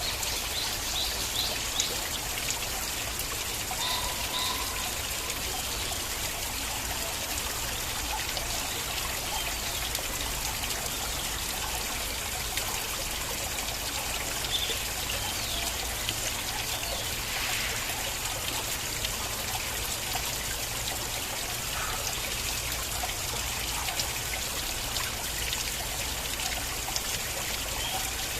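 Small stream of water flowing and trickling steadily, with a few faint short chirps over it.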